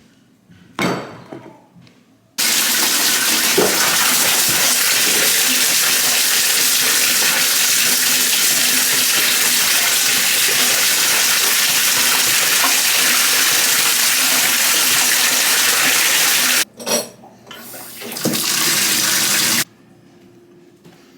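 Water running hard from a tap in a steady rush for about fourteen seconds. It stops briefly with a few knocks, runs again for about a second and a half, then cuts off.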